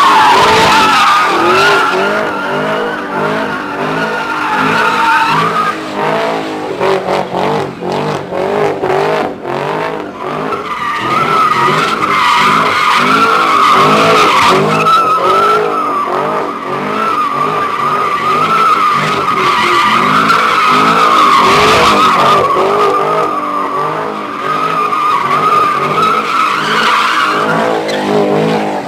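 Car tyres squealing through a long burnout or drift, with the engine revving up and down beneath. For a few seconds, from about six seconds in, the squeal breaks off and the engine runs in quick stuttering pulses, then the squeal comes back and holds for most of the rest.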